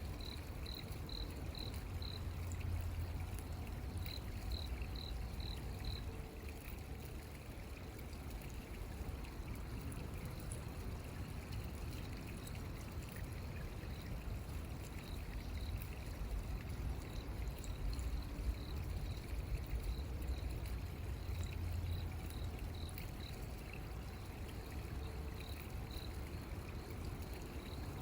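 Water trickling and flowing steadily in a stream, with quick runs of short high chirps (about five to a run) calling every few seconds over it.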